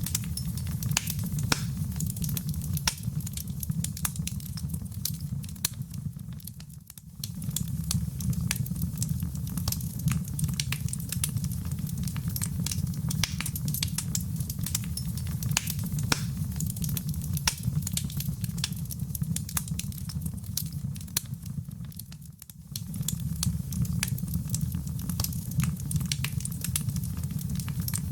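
Wood fire in a fireplace crackling and popping with many sharp snaps over a steady low rumble of flame. It dips briefly quieter twice.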